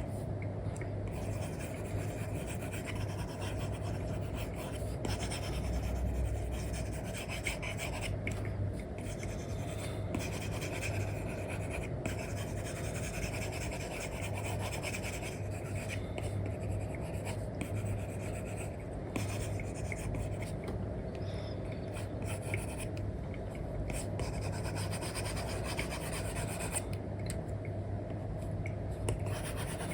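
Apple Pencil 2 nib rubbing and scratching across an iPad screen fitted with a paper-like film, in continuous drawing strokes over a steady low hum.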